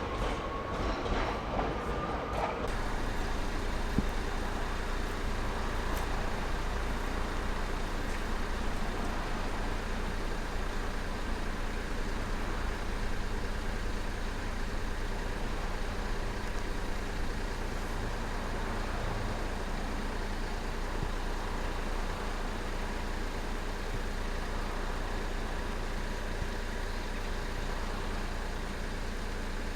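An electric train pulling out, its motor whine rising in pitch over the first couple of seconds and then cutting away, followed by a steady low rumble.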